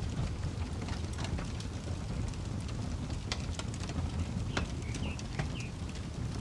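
Wood campfire crackling, with irregular sharp snaps over a steady low rumble. A bird gives a few short chirps about five seconds in.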